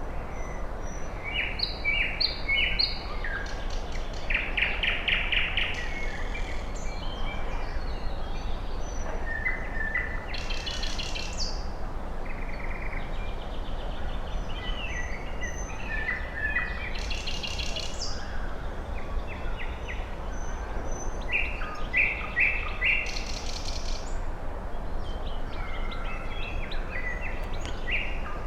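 A mixed chorus of forest birds, about five different species, singing and calling: short repeated chirps, quick trills and a few higher, sharper phrases, over a steady low background hiss.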